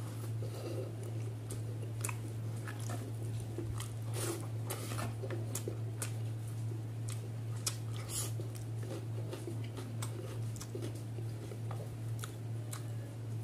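Close-up eating sounds: chewing with many short wet smacks and clicks of the mouth as rice and catfish curry are eaten by hand, over a steady low hum.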